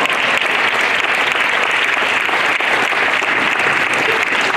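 Audience of schoolchildren applauding in a school hall, many hands clapping steadily; it starts just before and fades out shortly after.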